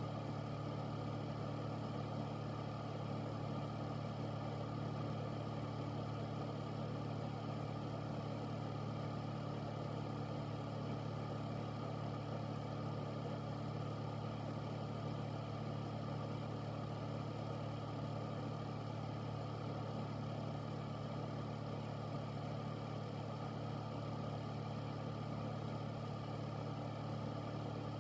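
Air purifier running steadily: an even hum with a low drone and a whoosh of moving air, unchanging throughout.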